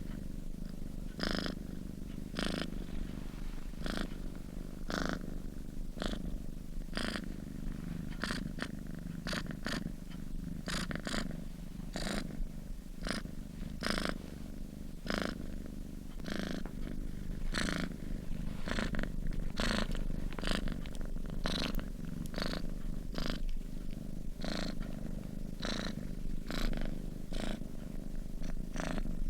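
A sleeping domestic cat purring steadily: a continuous low rumble broken by regular pulses, slightly more than one a second.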